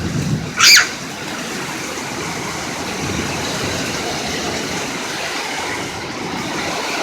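A steady rushing noise that holds an even level, after one short, loud, sharp sound about a second in.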